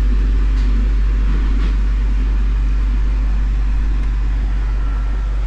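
A steady, loud low hum with no breaks.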